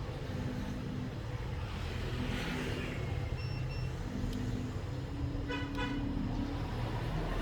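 Road traffic with engines running and a vehicle horn tooting in quick short blasts about five and a half seconds in, over a steady low hum. Two short high beeps come about three and a half seconds in.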